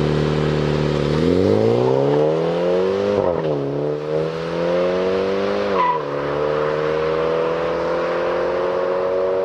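Mini Cooper's engine and exhaust under acceleration: the note climbs in pitch, drops sharply at an upshift about three seconds in, climbs again, drops at a second upshift about six seconds in, then holds a nearly steady cruising note.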